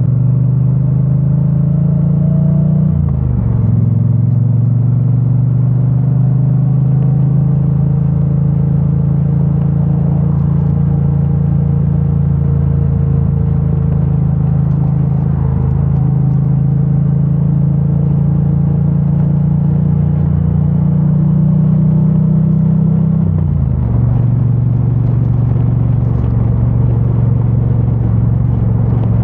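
2022 Triumph Bonneville T100's parallel-twin engine, on its stock exhaust, running steadily under way, muffled as heard from a microphone stuffed in a backpack. The engine note drops quickly twice, about three seconds in and again about twenty seconds later.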